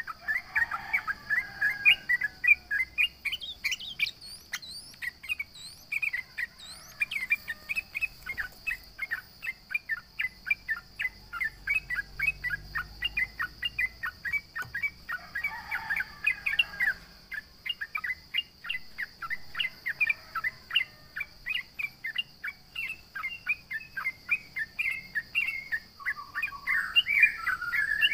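Yellow-vented bulbul (trucukan) calling in a long run of short, sharp chirps, several a second, with bursts of busier chattering near the start, about halfway through and near the end.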